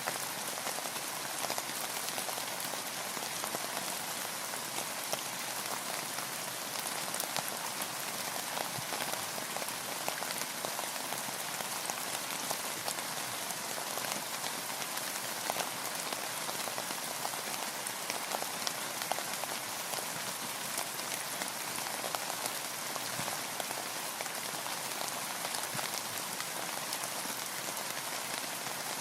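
Steady rain falling on a boat and the surrounding water, a dense even patter of drops with many small ticks.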